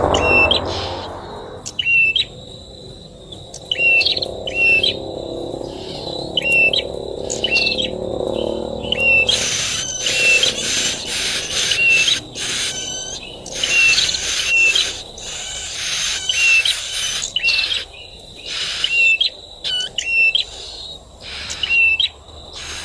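Prinia (prenjak) calling over and over in short, sharp chirps, about one to two a second.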